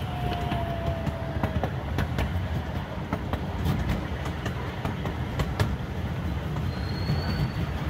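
Small amusement-park train running along its track, heard from on board: a steady low rumble of the cars with irregular clacks of the wheels over the rail joints, and a faint thin squeal in the first second and a half.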